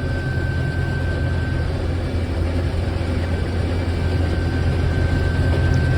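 Combine harvester running steadily while harvesting wheat: a constant low engine drone with a thin steady whine over it.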